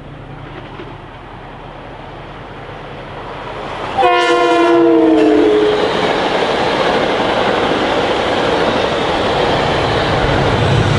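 Passenger train approaching and passing at speed: its rumble builds, then about four seconds in its multi-note horn sounds one blast of under two seconds, dropping slightly in pitch as it goes by. The loud, steady noise of the train passing follows.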